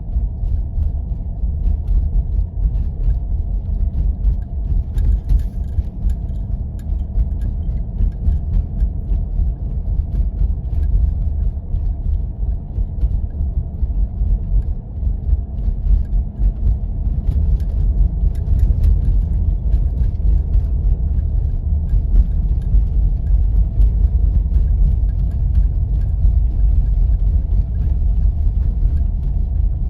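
A 4x4 vehicle driving on snowy roads, a steady low rumble of engine and tyres, with faint scattered ticks over it.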